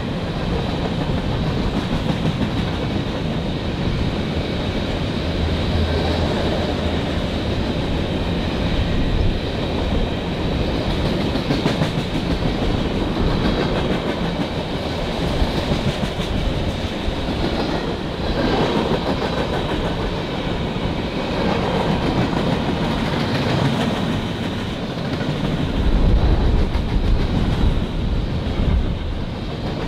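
A train's cars rolling steadily past, a continuous rumble with the wheels clacking over the rail joints, and a heavier low rumble from about 26 seconds in.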